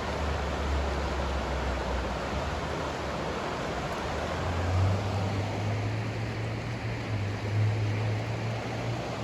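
Steady pink noise: an even, soft hiss spread across all pitches. A low hum sits beneath it and shifts to a slightly higher pitch about five seconds in.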